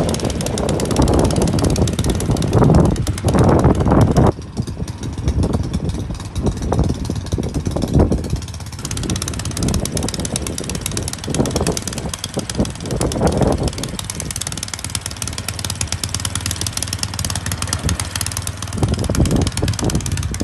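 A snow blower's engine running steadily, louder for the first four seconds and then dropping off suddenly.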